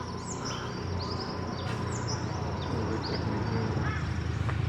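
A bird giving short, falling high chirps over and over, about two a second, over a steady high thin whine and a low outdoor rumble.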